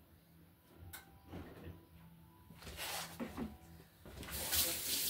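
Kitchen handling sounds: a few light knocks and clatter, then a louder rushing noise starting about four seconds in.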